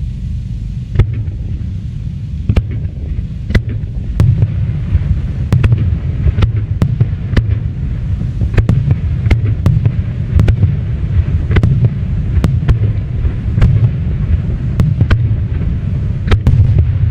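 Aerial fireworks bursting: many sharp bangs at irregular intervals over a deep, continuous rumble, the bangs coming faster and closer together from about five seconds in.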